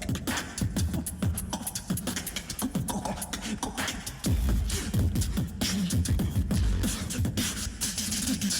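Tag-team beatboxing: rapid clicks and sharp snare-like hits over deep bass sounds that slide downward in pitch, the bass growing heavier about halfway through.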